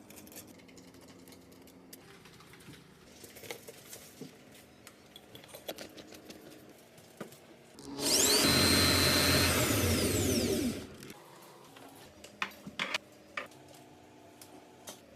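A handheld electric drill runs at full speed for about three seconds, starting about halfway through, then winds down with a falling pitch. Scattered small clicks and knocks of handling come before and after.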